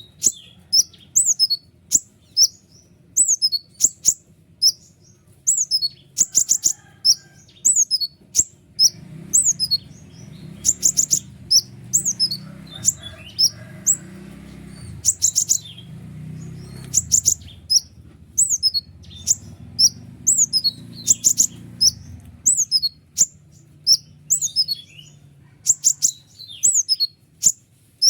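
White-winged konin songbird singing sharp, high chirps that slide downward, delivered in rapid, close-set bursts with short pauses between them.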